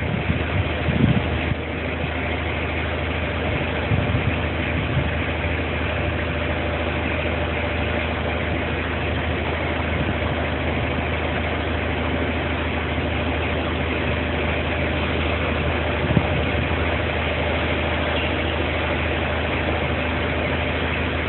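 A boat's engine idling steadily with a constant low hum.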